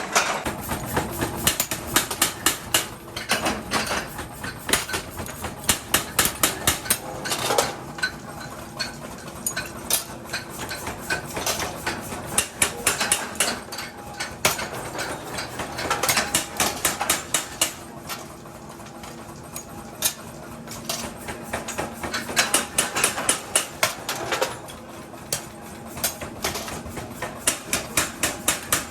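Hammer striking metal in quick runs of sharp blows, several a second, with short pauses between runs.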